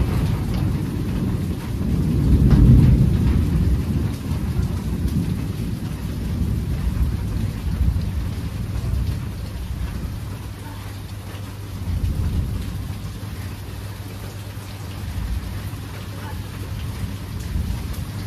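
Steady rain with rolling thunder: a deep rumble swells at the start, peaks about two to four seconds in, and a weaker one rolls through around twelve seconds in.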